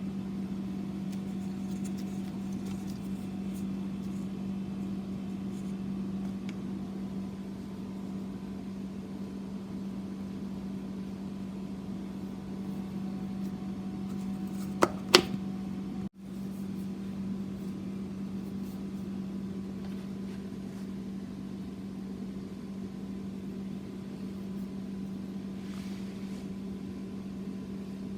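Microwave oven running with a steady low hum. Two short, sharp sounds come about halfway through.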